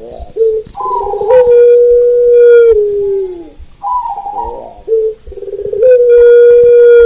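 Zebra doves (perkutut) cooing in rolling trills, mixed with long drawn-out calls that drop in pitch at the end, the pattern repeating about every three to four seconds.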